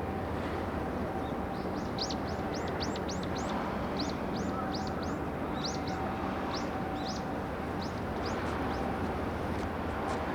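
A small bird chirping in quick runs of short, rising notes for most of the stretch, over a steady low rumble with a faint steady hum.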